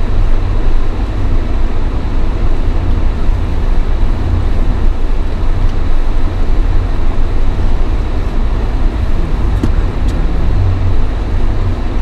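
Steady low rumble of a car driving, its engine and tyres heard from inside the cabin, with two faint clicks about ten seconds in.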